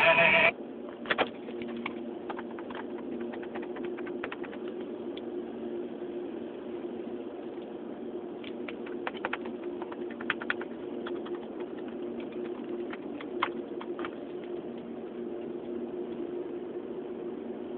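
Car stereo music cuts off abruptly about half a second in as the audio system fails, leaving a steady low hum with scattered sharp clicks.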